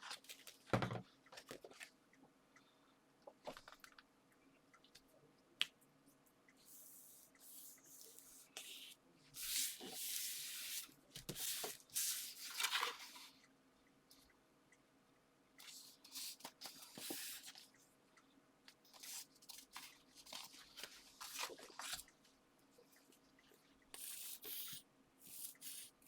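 Paper and card being handled and slid together on a craft desk: a knock about a second in, then several short rustling swishes.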